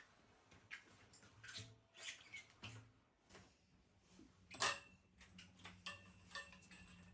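Scattered light clicks and knocks of objects being handled, the loudest a sharp click about four and a half seconds in, over a low steady hum that starts about three seconds in.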